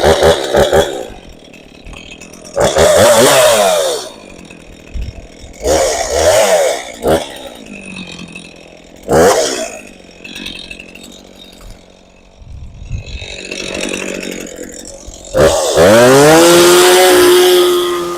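Chainsaw revved hard in repeated bursts, about five in all, dropping back to a lower idle between them, as it cuts into a tree. The last and longest burst climbs in pitch and holds at full throttle near the end.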